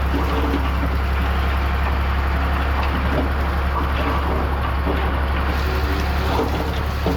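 Heavy diesel earthmoving machinery running steadily: a deep, constant engine drone with a few faint knocks.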